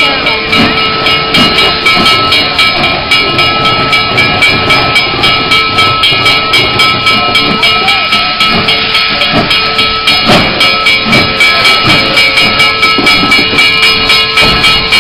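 Steam train under way, with a steady rhythmic beat about two to three times a second running throughout.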